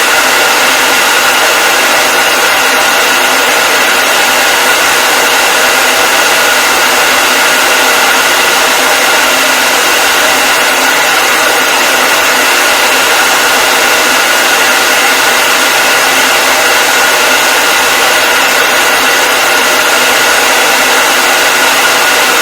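Hair dryer running steadily: an even, loud whoosh of blown air with a steady high whine from its fan motor.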